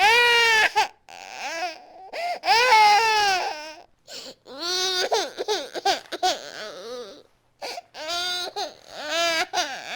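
Infant crying hard in a series of loud, high wails, each about a second long with rising and falling pitch, broken by short gasps for breath.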